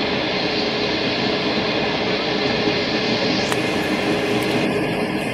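Steady running noise of a passenger train in motion, heard from on board, with one sharp click about three and a half seconds in.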